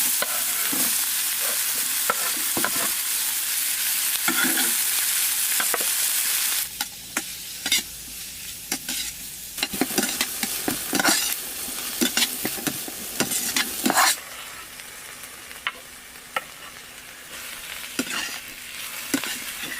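Food sizzling in a frying pan while a utensil stirs it. The sizzle is loud for the first six seconds or so and then drops off suddenly, after which a run of sharp scrapes and clicks of the utensil against the pan stands out.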